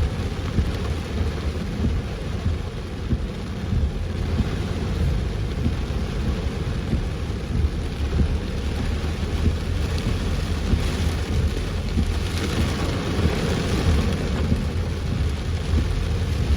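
Heavy rain pounding steadily on a moving car, with a constant low rumble underneath.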